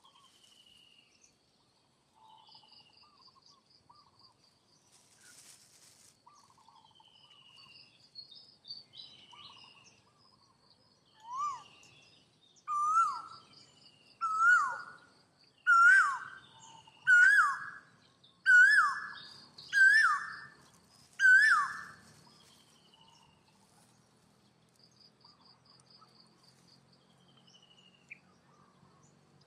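A run of eight loud whistled animal calls about a second and a half apart, each note rising then falling, the first few building in loudness. Faint high bird chirping runs throughout.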